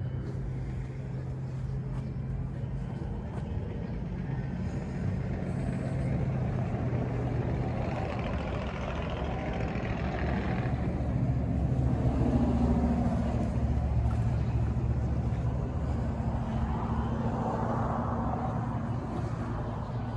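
Car engine running with a steady low rumble, growing louder toward the middle and then easing off a little.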